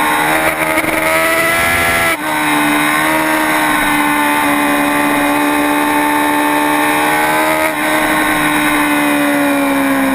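Racing superbike engine running hard at high revs, its note rising for about two seconds, then a sharp drop in pitch from an upshift. It holds steady with a brief dip near eight seconds before easing down slowly near the end.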